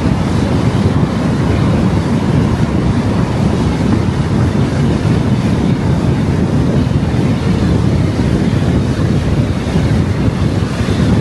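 Steady road and wind noise from a moving car, the low rush of tyres and air with no pauses or changes.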